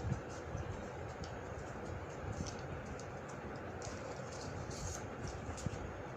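Paper crinkling and creasing as a sheet is folded by hand: scattered faint crackles and taps over a steady background hiss.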